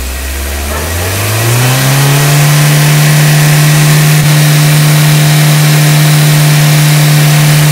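Maruti Suzuki Ignis petrol engine revved up from idle over about two seconds and then held at steady raised revs, to bring it up to temperature for a check of the radiator cooling fan.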